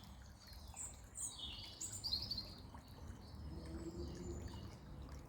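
Songbirds chirping, a few short high calls clustered in the first couple of seconds, over the faint steady babble of a small brook.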